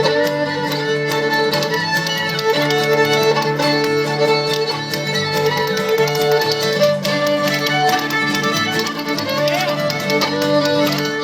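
Old-time string band playing an instrumental break: a bowed fiddle carries the melody with sliding notes over a strummed acoustic guitar, with a steady rhythm of sharp clicks from a pair of spoons.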